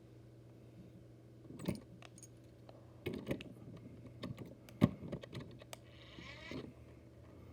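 Small die-cast metal toy motorcycles being handled and set down: a string of light clicks and knocks, the sharpest about five seconds in, then a short plastic-bag rustle near the end.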